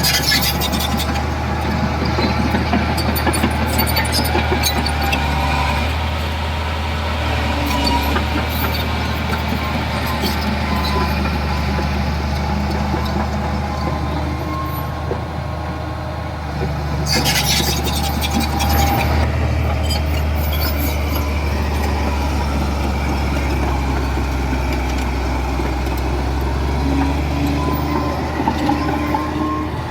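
Diesel engine of heavy earthmoving machinery running steadily, a deep continuous drone. Spells of metallic clanking and rattling come at the start and again about seventeen seconds in.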